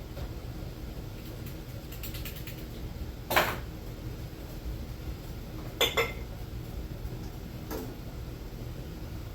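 Kitchenware clinking while canning jars are handled: one sharp clink about three seconds in, a quick double clink near six seconds and a faint one near eight, over a steady low hum.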